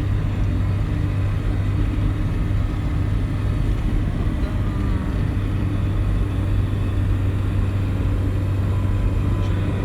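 Steady engine and road drone of a car being driven, heard from inside the cabin, with a constant low hum and no distinct events.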